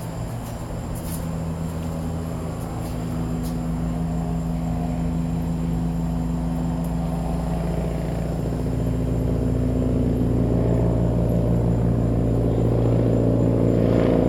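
Helicopter flying over low: a steady low drone of rotor and engine, growing steadily louder as it comes closer.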